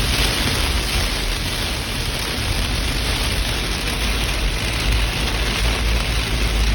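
Heavy typhoon rain: a steady hiss with a deep rumble underneath.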